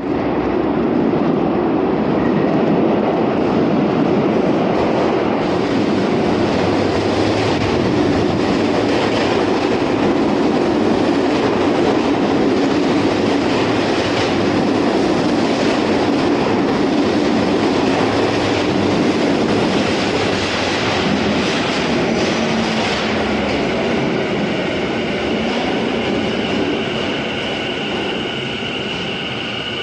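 A limited-express electric train pulls into an underground station platform with loud, steady running and wheel noise. Near the end the noise eases off as the train slows, and a high steady squeal comes in.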